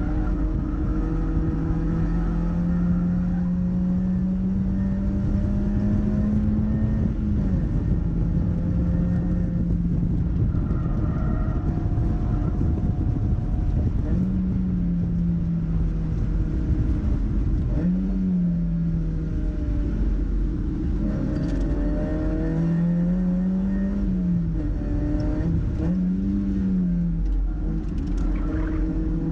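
Mazda MX-5's four-cylinder engine driven hard: the note climbs steadily through the revs, drops sharply at a gear change about seven seconds in, then rises and falls in several quick swells in the second half as the car shifts and brakes, over constant road and wind noise.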